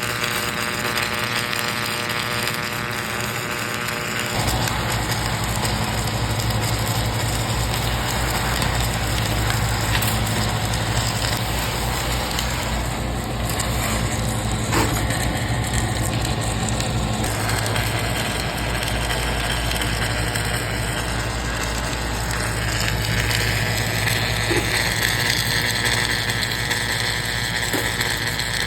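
Steady low hum of running machinery, a motor or engine that comes on about four seconds in and keeps going evenly, with noise and a few light clicks over it.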